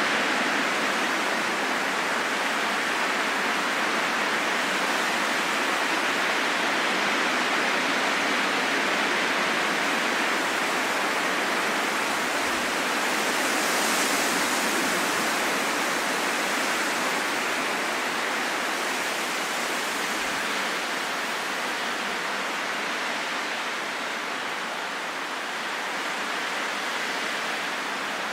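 Steady rain falling in a forest, an even hiss of rain with no distinct drops or thunder.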